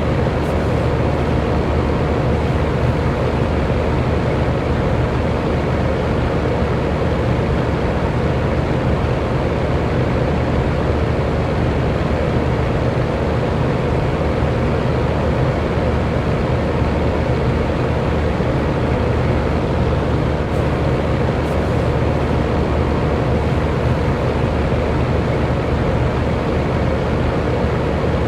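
Electric fan running steadily, a constant whooshing noise with a faint motor hum.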